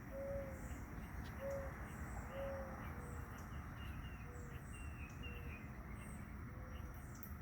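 A dove cooing faintly, a series of short, low coo notes roughly a second apart, with other small birds chirping faintly in the background.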